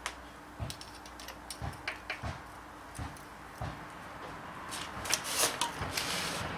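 Handling noise: scattered light clicks and soft knocks, with a short cluster of louder scrapes about five seconds in.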